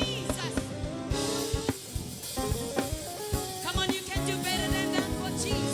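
Gospel worship music from a live band: a drum kit keeping the beat under sustained chords, with the drums alone for a moment about a second in.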